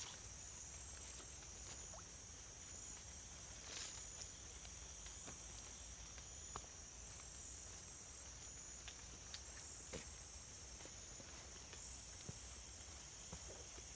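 A steady, high-pitched chorus of forest insects, with scattered soft ticks and clicks throughout and a slightly louder rustle about four seconds in.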